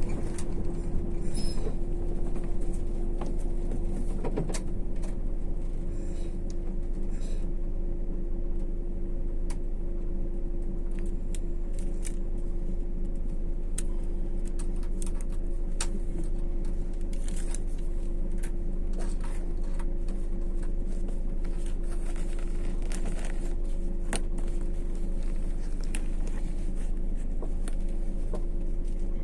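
MAZ-152 coach's diesel engine and drivetrain droning steadily while driving, heard from inside the passenger cabin, with light rattles and clicks throughout.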